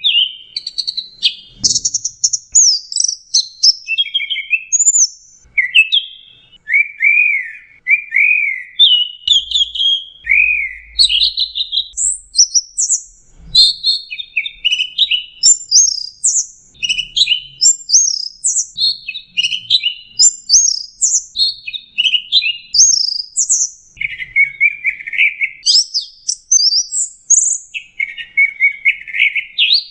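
Long-tailed shrike singing a continuous, varied song of quick high chirps, short whistled slurs that rise and fall, and rapid chattering phrases, with hardly a pause between them.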